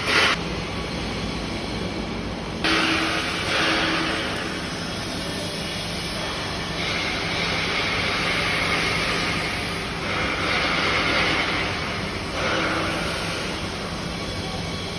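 Electric arc welding: a steady hiss from the arc that swells louder a few times, over a faint low steady hum.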